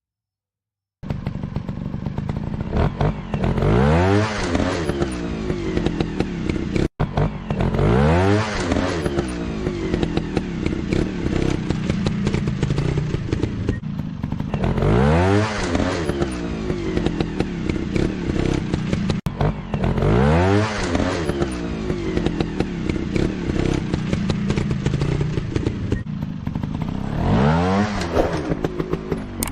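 Motorcycle engine running and revving up repeatedly: about five sharp rises in pitch that each fall back, over a steady clatter. It starts after a second of silence.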